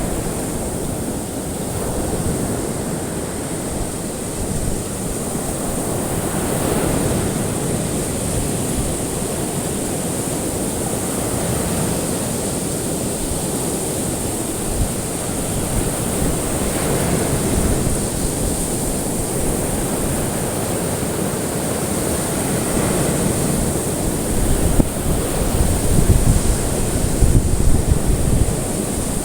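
Ocean waves washing onto a shore, a steady surf with slow swells every several seconds, over a constant high hiss.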